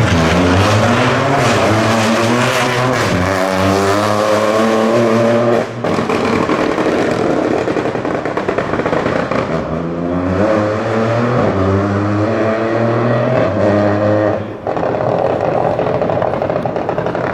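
Rally car engine accelerating hard through the gears, its pitch climbing again and again and dropping sharply at each gear change. There are clear breaks about three, six and fourteen and a half seconds in.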